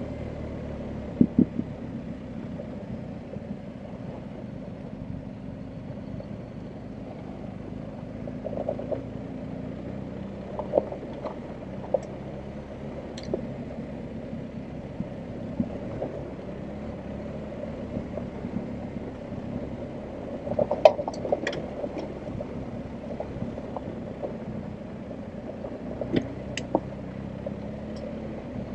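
BMW R1250GS Adventure's boxer-twin engine running at low, steady revs while riding a rough track, with scattered sharp knocks and clatter from the bike over the ground; a cluster of the loudest knocks comes about two-thirds of the way through.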